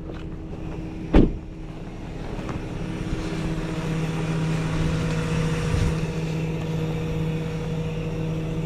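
A single sharp knock about a second in, then a truck engine running steadily, its hum coming up about three seconds in and holding.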